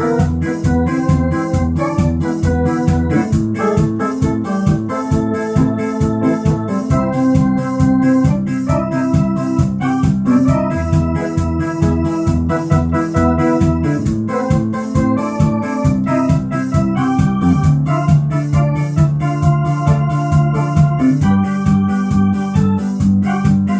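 Electronic organ playing a disco arrangement in A minor: held chords and bass notes with a melody line over the organ's built-in rhythm, a steady fast beat running throughout.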